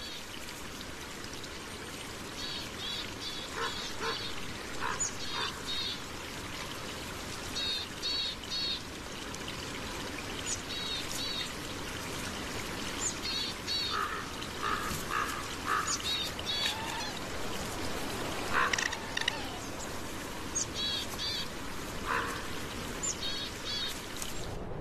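Bird chirping in quick runs of two or three short high notes, repeated every second or two, with some lower short calls now and then, over a steady background hiss.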